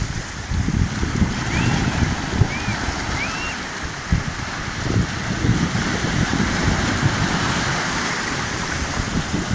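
Sea surf breaking and washing in, with wind buffeting the microphone in gusts. A few short high chirps sound in the first few seconds.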